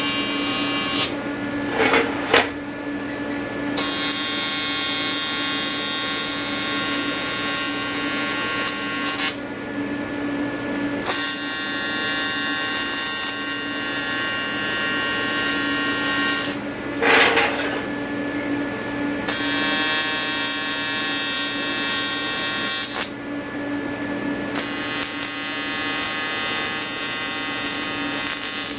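AC TIG welding arc on an Everlast 325EXT in square-wave mode at 100–150 Hz frequency, buzzing steadily in runs of four to six seconds, with short pauses between as the arc is broken and struck again. A brief clatter falls in two of the pauses.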